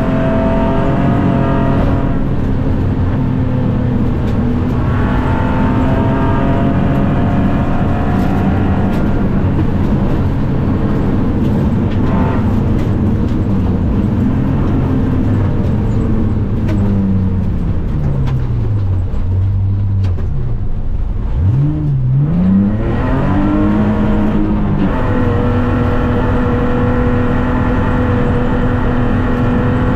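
BMW E46 rally car's engine heard from inside the cabin, running hard at high revs on a gravel stage. About two-thirds of the way through, the revs fall away as the car slows for a corner, dip and jump back up briefly, then climb and hold high again as it accelerates out.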